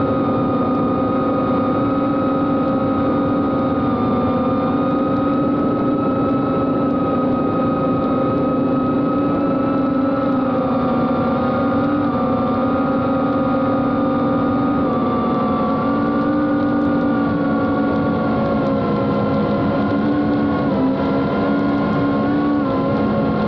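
Brushless motors and 76 mm propellers of a small 4S cinewhoop FPV drone whining steadily in flight, heard from a camera mounted on the drone. Several tones sit together and shift slightly in pitch as the throttle changes, with a brief dip near the end.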